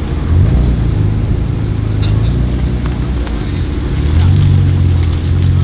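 BMW M4 F82's twin-turbo straight-six running through a Milltek aftermarket exhaust, a low, deep note that swells about half a second in, eases off around three seconds, and swells again near four seconds.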